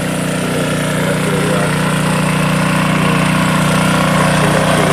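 Pressure washer's engine running steadily, a constant low hum that grows slightly louder.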